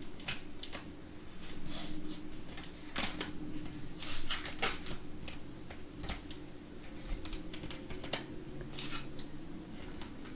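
Trading cards and their pack handled by hand: cards sliding out and being shuffled, an irregular run of short rustles and light clicks.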